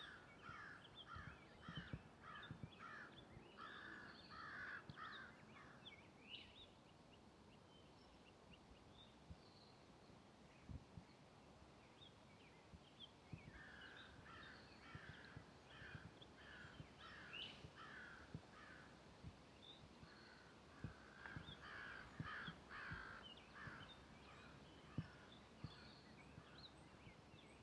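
A bird calls in three runs of quick, evenly repeated harsh notes, about three a second. Soft footsteps on the trail go on underneath.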